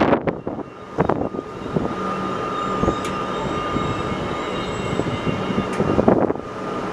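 A train running on the line: a steady rumble with a faint high whine over it from about two seconds in. Wind buffets the microphone at the start and again near the end.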